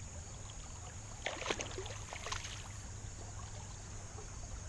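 Shallow river water splashing and lapping around a wading angler. A few brief splashes stand out about a second and a half and two and a half seconds in, over a steady low rumble.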